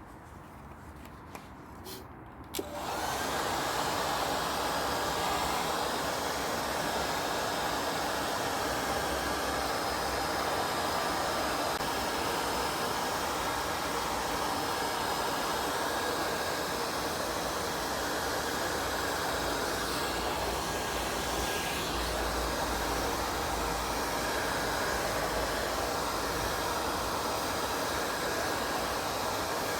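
A power tool's electric motor starts about two and a half seconds in and runs steadily, a constant whirring hiss that does not change.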